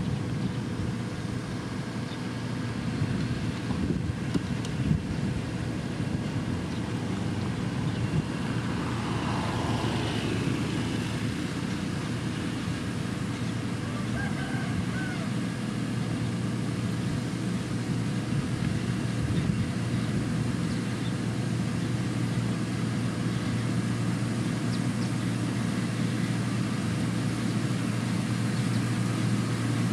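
Diesel engine of heavy road-construction machinery running steadily at a constant pitch.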